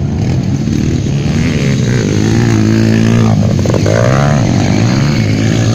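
150cc motocross bike engines revving on the track, their pitch rising and falling as the riders work the throttle and shift gears, with a brief dip and climb past the middle.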